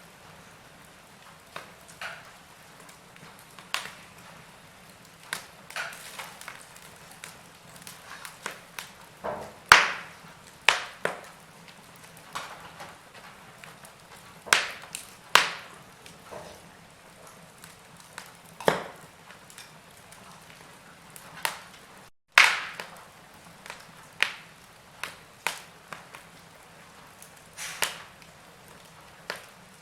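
Wood fire crackling in a fireplace: irregular sharp pops and snaps over a faint steady hiss, with the loudest pops about ten seconds in and just after a momentary break in the sound a little past the middle.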